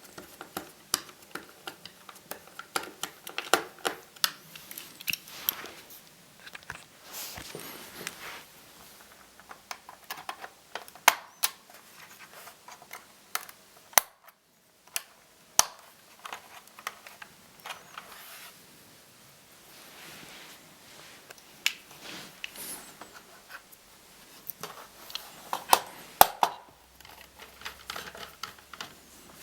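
Irregular light clicks, taps and small metallic rattles of screws and plastic parts being handled while a laptop is taken apart by hand, with a brief dead-quiet gap about halfway.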